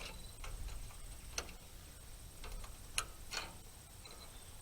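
A handful of faint, sharp, irregularly spaced clicks as a wrench works a rusty nut off a hay rake bolt, the loudest about three seconds in.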